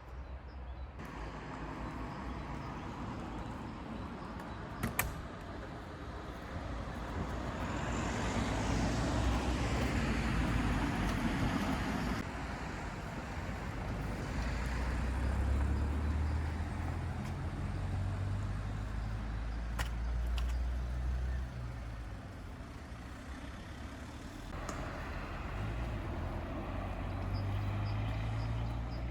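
Meat and potatoes sizzling in a hot pan, over a low, uneven rumble that swells and fades several times.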